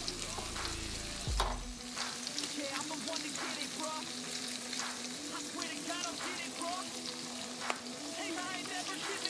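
Corn fritter batter deep-frying in hot oil in a stainless steel skillet, sizzling steadily with frequent crackles and pops. There is a single thump about a second and a half in.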